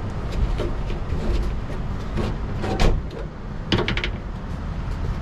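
Steady low rumble of a Scania 770S V8 truck, with several sharp knocks and rattles over it: one strong knock about three seconds in and a quick cluster of three or four soon after.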